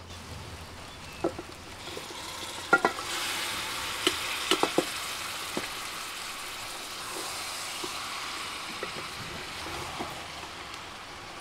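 Marinated chicken sizzling in hot oil with onions and tomatoes as it is stirred in the pot with a wooden spatula. The sizzle swells about three seconds in, and several sharp knocks of utensils against the pot come in the first few seconds.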